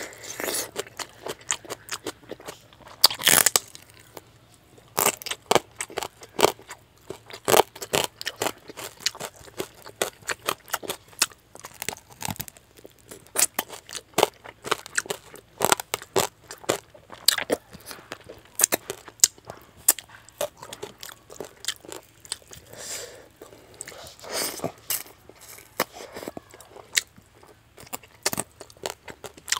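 A person biting and chewing a fish head with rice eaten by hand: irregular crunches and chewing throughout, with a loud crunch about three seconds in.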